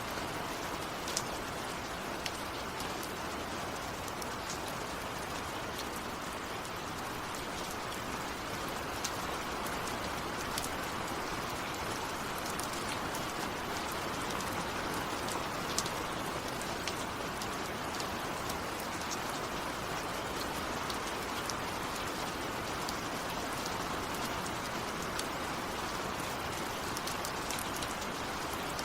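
Steady rainfall, an even hiss of rain with scattered sharp ticks of individual drops hitting a nearby surface.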